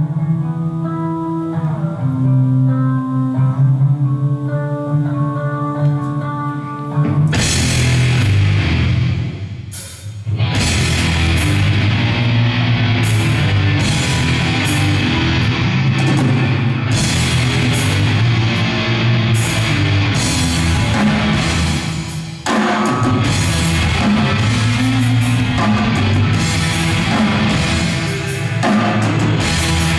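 Instrumental Christian rock: held guitar notes over a steady bass line, then about seven seconds in the full band comes in with drums and distorted electric guitars, dropping out briefly near the twenty-two-second mark.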